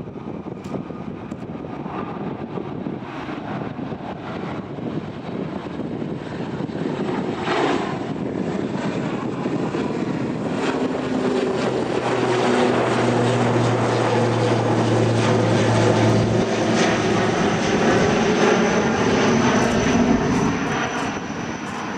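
Passenger aircraft engines heard across the airfield, their noise building steadily to a peak about two-thirds of the way through, then easing slightly. A steady low drone appears midway, and a thin high whine comes in near the end.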